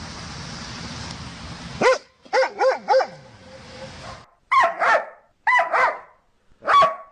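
Dog barking: after a couple of seconds of steady background hiss, a quick run of four barks, then louder, higher-pitched barks, mostly in pairs.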